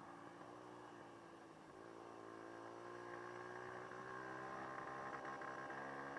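Dirt bike engine running steadily, its pitch dipping briefly about two seconds in and then climbing slowly as it grows a little louder.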